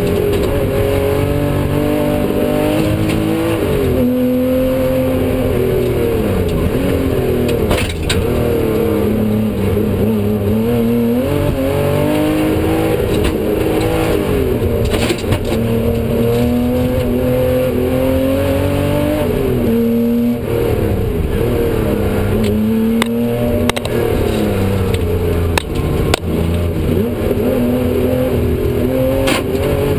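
Tuthill-built Porsche 911 rally car's air-cooled flat-six engine, heard from inside the cabin at full stage pace. It revs hard, its pitch climbing and dropping again every few seconds through gear changes and braking for bends, with a few sharp knocks along the way.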